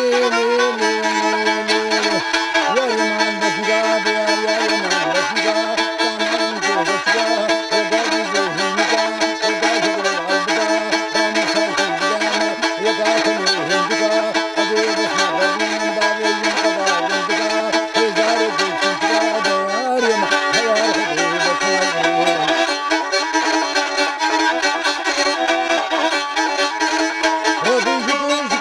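Kamancheh, a bowed spike fiddle, playing a slow melody in a traditional Kurdish style, with a lower sustained line under it that drops out about three-quarters of the way through.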